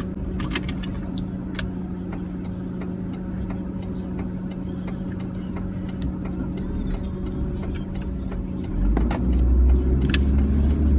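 Car engine and road noise heard from inside the cabin while driving: a steady hum, with a deeper rumble growing louder about nine seconds in.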